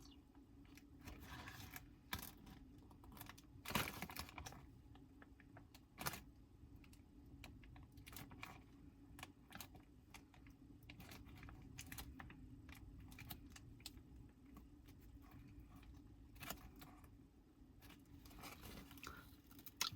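Near silence with faint scattered clicks and light rustling from small objects being handled, the clearest about four and six seconds in, over a faint steady hum.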